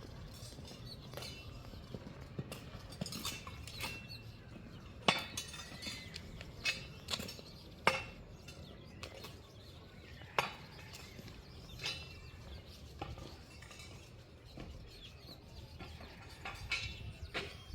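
Irregular clinks and knocks every second or so, some ringing briefly, the sharpest about five and eight seconds in.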